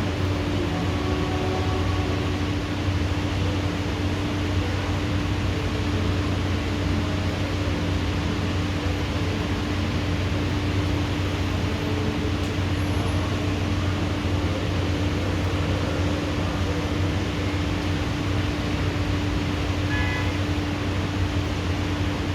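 Steady rain from a thunderstorm, an even hiss at constant level, with a steady low hum under it.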